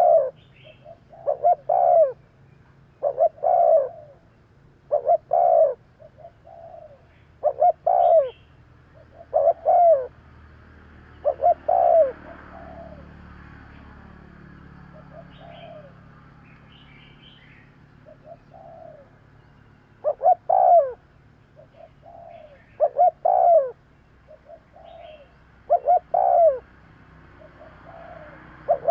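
Spotted dove cooing: short phrases of low coo notes repeated about every two seconds, softer for several seconds midway, with faint high chirps of small birds.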